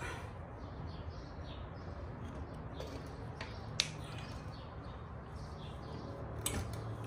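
Faint birds chirping over a low steady hum, with a sharp click about four seconds in and another near the end.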